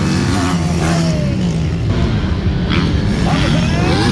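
Several motocross motorcycle engines revving as the bikes race past, their pitches rising and falling over one another.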